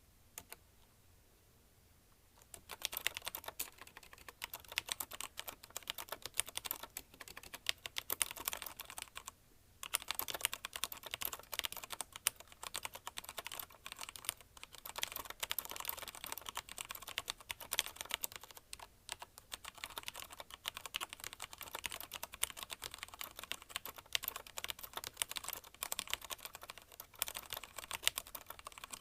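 Fast typing on a CM Storm Quick Fire TK mechanical keyboard with linear Cherry MX Red switches: a dense, continuous stream of key clacks. The typing starts after a pause of about two and a half seconds and stops briefly about a third of the way through.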